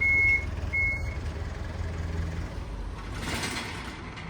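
Vehicle reversing alarm giving two steady high-pitched beeps, then stopping about a second in, over a low engine rumble.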